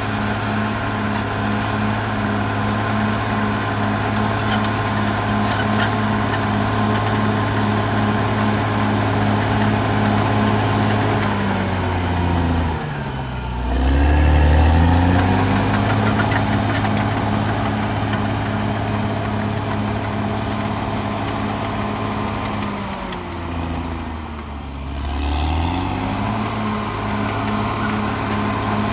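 Caterpillar D6R XL bulldozer's diesel engine running steadily at high revs. Its pitch sags and recovers twice, about halfway through and again near the end.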